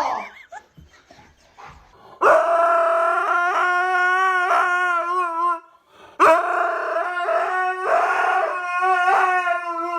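A dog howling in two long, wavering howls, the second beginning about six seconds in.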